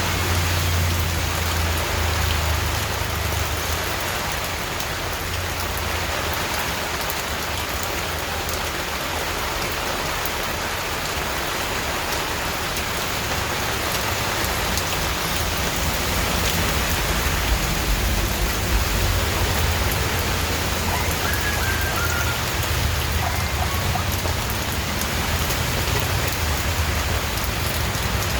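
Steady heavy rain falling on surfaces: a dense, even hiss of drops, with a low rumble underneath that swells and fades.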